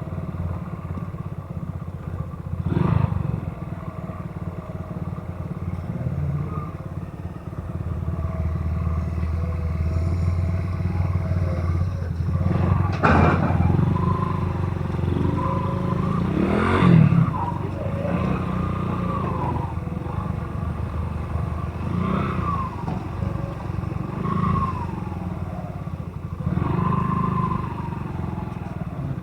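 Motorcycle engine running steadily while riding, with road and traffic noise and brief louder moments about 3, 13 and 17 seconds in.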